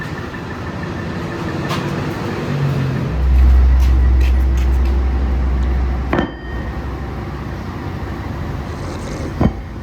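Heavy workshop machinery running steadily. A deep low hum comes in about three seconds in and stops suddenly with a sharp knock about six seconds in; another knock comes near the end.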